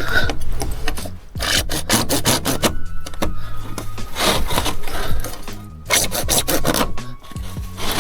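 PVC irrigation pipe being cut with a hand saw: quick back-and-forth rasping strokes in runs, with short pauses between them.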